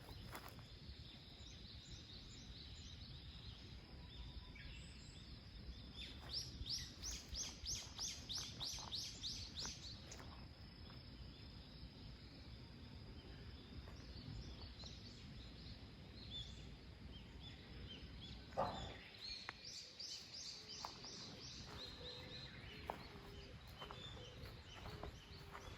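Faint bird calls over quiet outdoor background: a run of about ten quick repeated high notes a few seconds in, and a shorter run later. A single sharper click sits between them.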